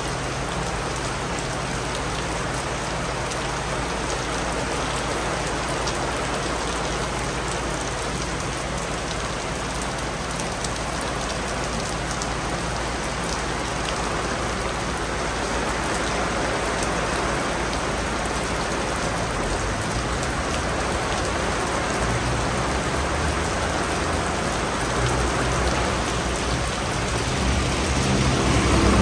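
Steady shower rain falling, a continuous even hiss of drops on hard surfaces. A low rumble builds in near the end.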